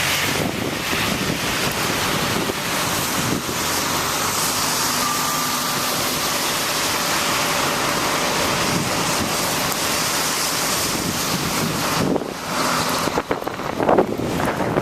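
Strong blizzard wind blowing over the microphone, a steady rushing noise that eases and turns gusty about twelve seconds in.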